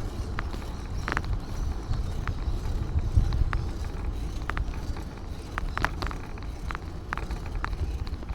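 Steady low rumble of wind buffeting the microphone of a bike-mounted camera while riding, with scattered sharp clicks and ticks at irregular intervals.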